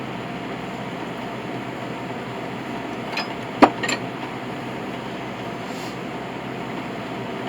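A piece of scrap brass set down with a sharp metallic clink about three and a half seconds in, with two lighter knocks just before and after, over a steady hum.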